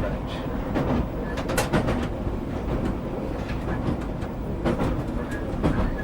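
Class 508 electric multiple unit running along the track, heard from the driver's cab: a steady rumble with sharp clicks and knocks from the wheels over rail joints.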